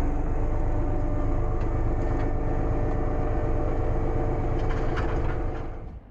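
Rural King RK24 subcompact tractor's engine running steadily, then falling away sharply near the end.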